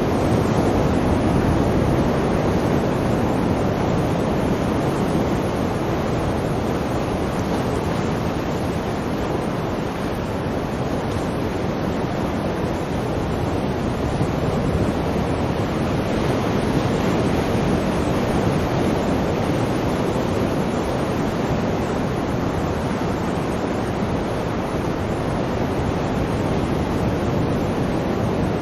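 Sea waves washing in, a continuous rushing noise whose loudness swells gently now and then.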